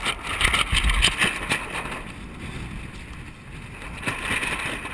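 Wind and water noise aboard a small sailing kayak, uneven and gusty, with a few low knocks in the first second or so and a quieter stretch in the middle.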